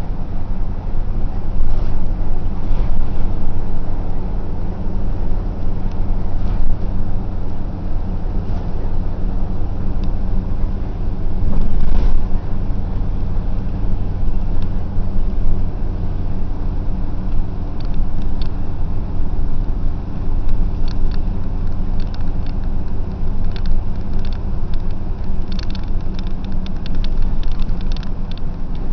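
A bus running: a steady engine drone and road rumble. In the second half there is a run of light rattling clicks.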